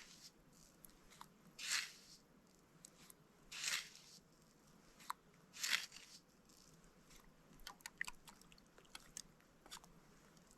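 Close-up mouth sounds of a person eating and drinking tea. Three louder bursts come about two seconds apart, then a run of small clicks and crunches near the end.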